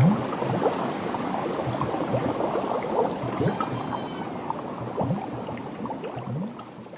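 Rain and splashing, bubbling water, fading away toward the end.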